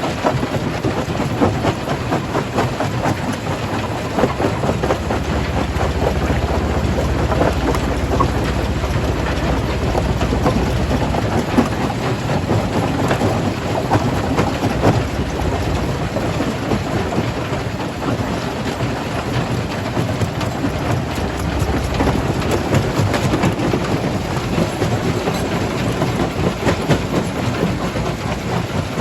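Stone crusher running under load: a steady heavy rumble full of rapid cracks and knocks as rocks are broken and ground between its jaws.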